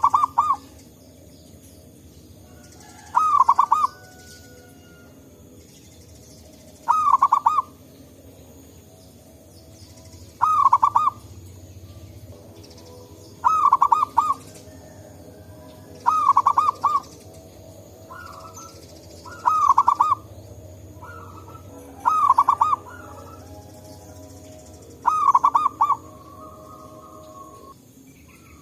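Zebra dove (perkutut) singing its cooing song: a short phrase of quick, rippling notes repeated about every three seconds, with fainter answering calls between the phrases.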